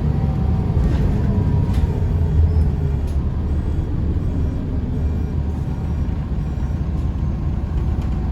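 Scania L94UB bus's DSC9 diesel engine running with a steady low rumble, easing slightly in the middle. A few faint clicks come in the first three seconds.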